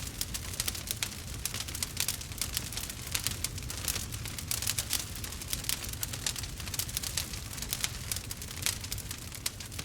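Wood fire burning, with dense irregular crackling and small pops over a steady low rumble of the flames.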